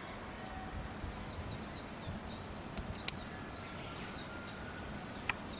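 A small bird chirping over and over in short, high, falling notes, a few per second, over steady outdoor background noise. Two sharp clicks stand out, one near the middle and one near the end.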